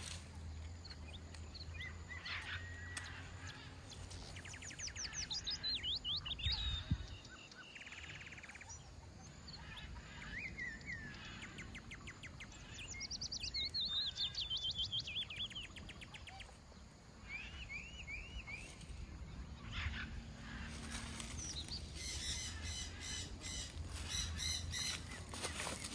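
Songbirds singing: several quick trilled phrases that run down in pitch, and a short run of repeated rising notes, over a low steady rumble.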